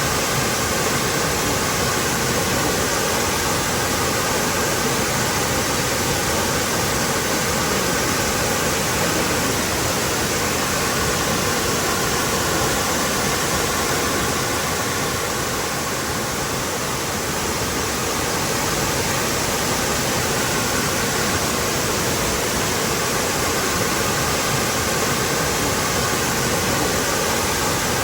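Waterfall: a steady, even rush of falling water, briefly a little softer a little past the middle.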